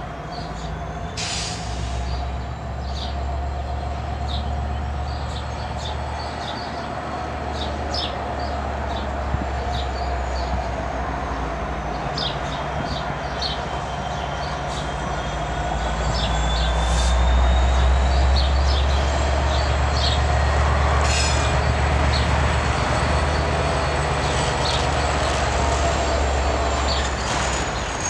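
Norfolk Southern freight train passing close by, led by a diesel locomotive and followed by autorack cars. The low engine and wheel rumble swells past the middle of the passage. Thin high-pitched wheel squeal slowly rises and falls over it, with scattered clicks from the wheels on the rails.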